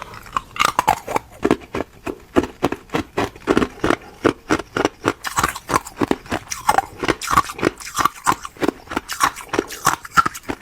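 Ice being chewed close to the microphone: a steady run of crisp crunches, about three or four a second.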